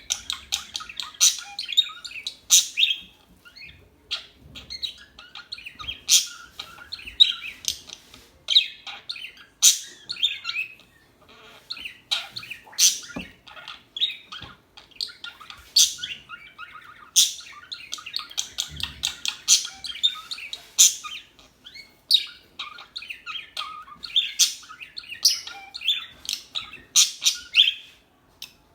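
Pet parakeets chirping and chattering, a dense stream of quick, high chirps broken by sharper, louder calls every second or two.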